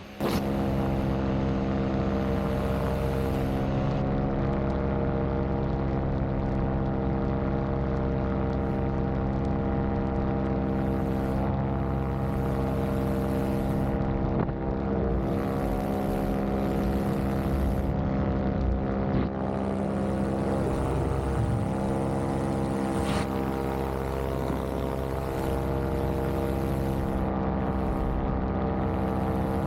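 Vittorazzi Moster 185 single-cylinder two-stroke paramotor engine and propeller running steadily in flight, holding an even pitch.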